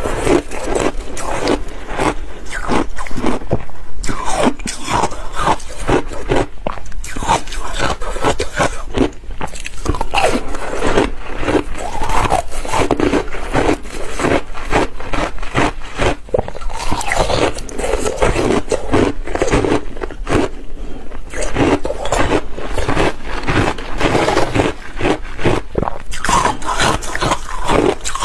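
Close-up crunching and chewing of hard ice with passion fruit: a dense, continuous run of crackling, cracking bites as the ice breaks between the teeth.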